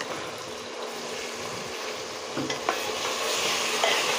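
Browned onions frying in oil in a pressure-cooker pot sizzle steadily as ground spice paste is spooned in and stirred with a metal spoon, with a few light clinks of the spoon. The sizzle grows louder about three seconds in.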